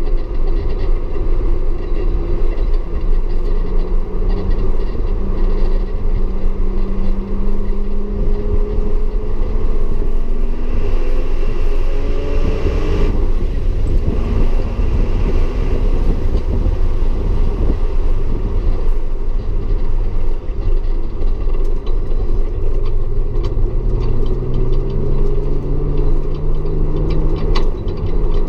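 Audi S4 engine running hard at track speed, its pitch slowly climbing through long pulls, dropping about halfway through, then climbing again near the end, over a constant low rumble.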